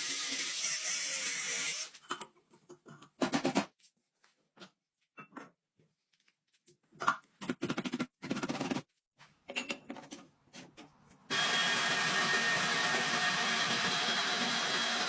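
Lathe running with a steady mechanical hum, broken into short bursts with silent gaps in the middle, then running steadily again from about eleven seconds in.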